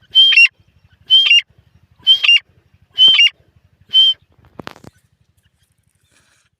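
Grey francolin calling loudly: five shrill calls about a second apart, each a sharp note followed by a bending second note, the last one cut short. A few clicks follow.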